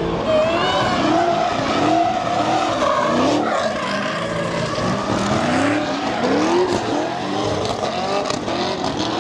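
Cars doing donuts and burnouts: engines revving up and down again and again, with tires squealing as they spin on the pavement.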